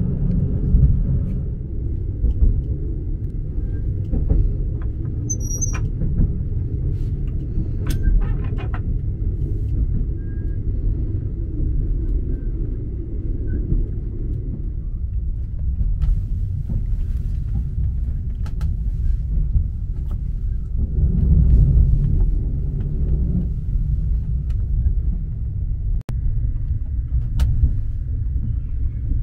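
Steady low rumble of a moving sleeper train, heard from inside a passenger cabin, swelling louder for a couple of seconds about two-thirds of the way through, with a few short clicks and rattles.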